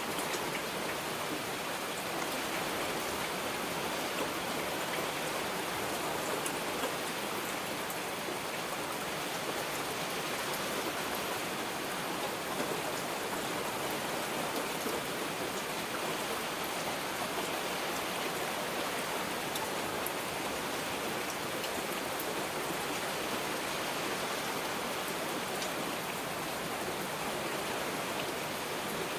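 Heavy rain falling steadily, an even hiss with scattered faint taps of individual drops.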